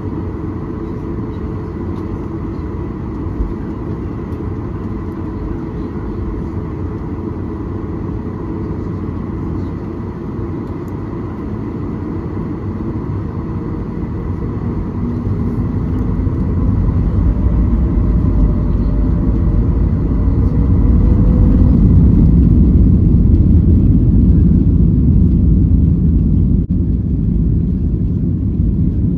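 Cabin noise aboard a Boeing 737 jet airliner: a steady rumble of engines and airflow with a faint steady whine. About halfway through the rumble grows louder and heavier and stays so.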